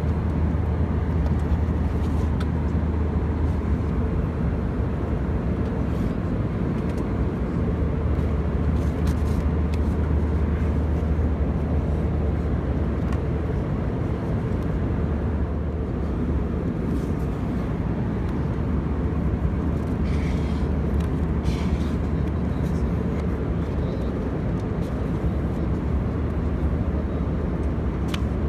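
Steady cabin noise of an Airbus A319 airliner: an even drone of engines and airflow with a constant low hum underneath.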